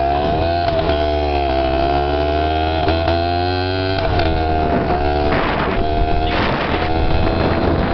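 Dirt bike engine running under way, its pitch wavering up and down with the throttle. Gusts of wind buffet the microphone about five to seven seconds in.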